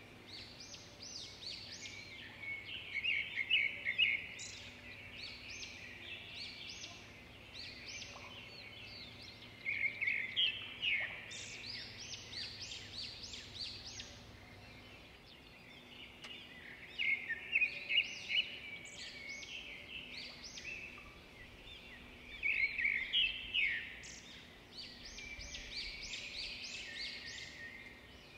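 Small birds chirping in quick runs of high notes, loudest in bursts every few seconds, over a faint steady hum.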